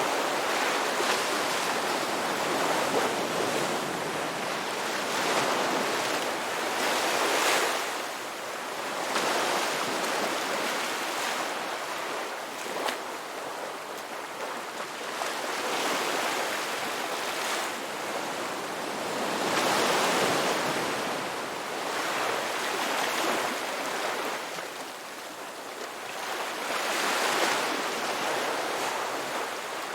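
Ocean waves breaking and washing in one after another: a continuous rushing that swells and ebbs every few seconds.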